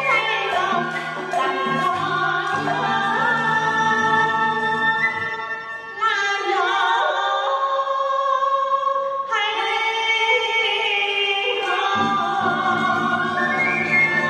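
Music with singing: voices holding long, wavering notes over an accompaniment whose low part drops out for a few seconds midway and then returns.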